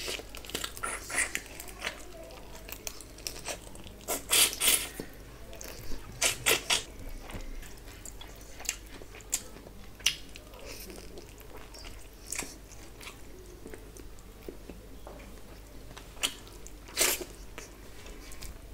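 Close-miked chewing and biting of a handful of rice and curried meat, with wet mouth clicks and smacks. The loudest bites and smacks come about four seconds in, around six seconds, and again near the end.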